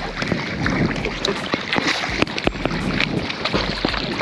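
Kayak paddles splashing and dripping in lake water, with many small irregular splashes, and wind buffeting the microphone at times.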